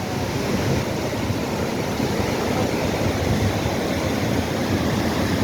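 Flash-flood water rushing steadily, a dense, unbroken noise.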